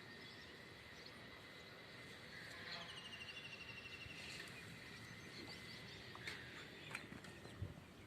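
Faint outdoor ambience with a small bird's rapid, slightly falling trill about three seconds in, and a few faint clicks near the end.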